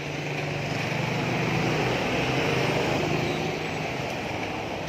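A motor or engine hum that swells and then fades after about three and a half seconds.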